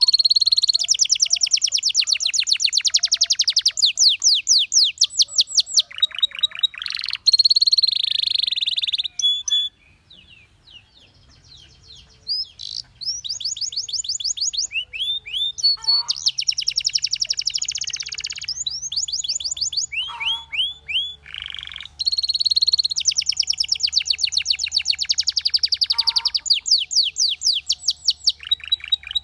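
Canary singing: long, fast trills of rapidly repeated notes, one phrase after another. The song breaks off for about three seconds a third of the way in, then resumes.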